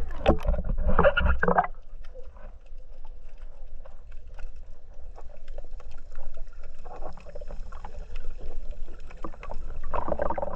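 Water splashing and bubbling around a microphone held at or under the surface while snorkeling, over a steady low rumble. There are louder bursts at the start and near the end, with small clicks between them.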